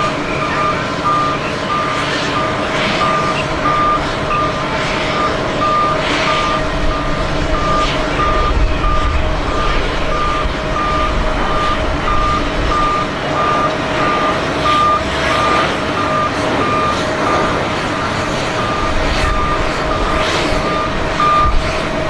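A vehicle's reversing alarm beeping at about three beeps every two seconds, then stopping near the end, over a steady hum and low rumble.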